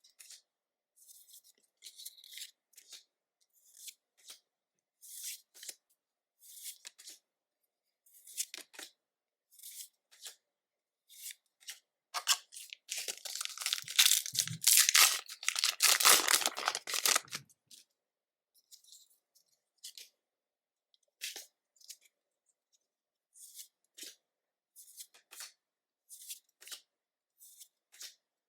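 Foil wrapper of a Pokémon 151 booster pack being torn open, a crinkly tearing from about twelve seconds in that lasts some five seconds and is the loudest sound. Before and after it, short light rustles and taps of trading cards being handled.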